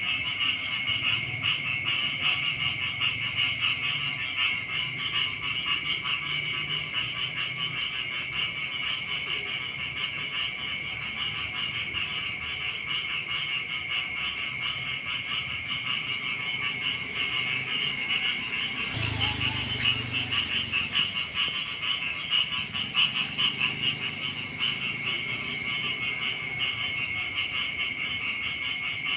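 Rice-paddy frog chorus: many frogs calling at once, a steady, fast-pulsing high trill, with deeper croaks coming and going beneath it.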